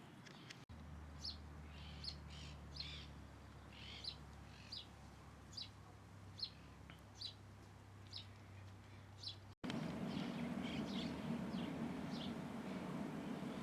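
A bird giving short, sharp chirps, repeated about once a second. Near the end a louder steady background noise comes in and fainter chirps carry on.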